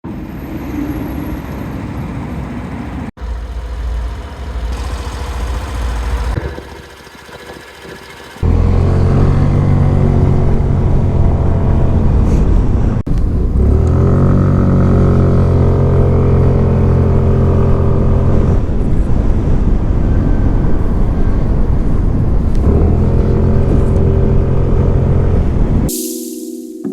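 Suzuki Avenis 125 scooter's single-cylinder four-stroke engine and exhaust, heard in several spliced clips: first a mixed riding sound, then a loud, steady exhaust note whose pitch rises once about halfway through as the throttle is opened.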